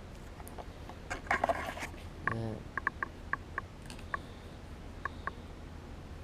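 Hands working with sticker sheets: a crinkly, scratchy rustle of backing paper about a second in, then a series of short light ticks and taps, with a brief low grunt-like sound between them.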